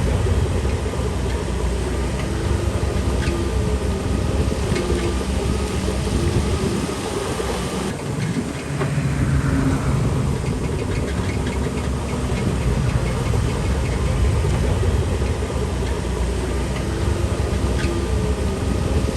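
Diesel engine of a Shantui DH17C3 PRO bulldozer working under load, running steadily with scattered sharp clanks. About halfway its sound briefly drops, then it picks up again with a short rising sweep.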